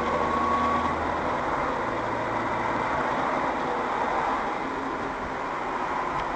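Steady vehicle driving noise, a continuous rumble of engine and road.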